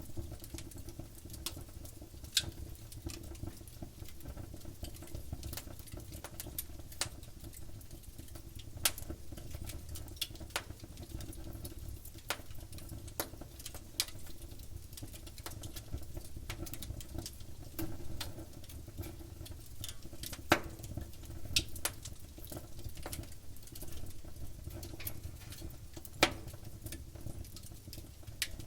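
Wood fire crackling: irregular sharp pops and snaps of burning wood, a few louder than the rest, over a low steady rumble of the flames.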